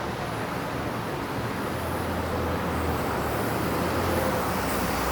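Street traffic: a steady low rumble of passing vehicles, growing slightly louder toward the end.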